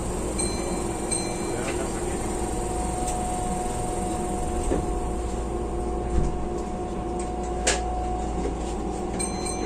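Keihan electric train running at speed, heard from inside the front car: a steady rumble with a held tone and a few sharp clacks from the track. Two short high beeps sound about half a second and a second in.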